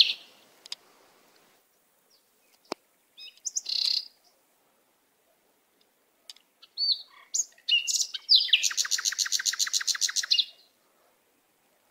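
A small bird chirping in short high calls, then a rapid trill of evenly spaced notes, about ten a second, lasting about two seconds. A single sharp click comes before the calls.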